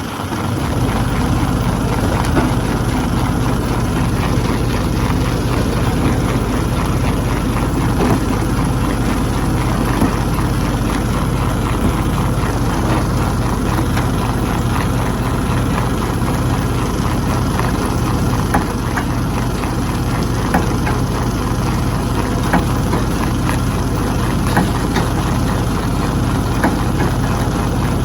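Stone crusher running steadily with a deep, constant hum, with scattered sharp cracks and knocks as rock is broken in it.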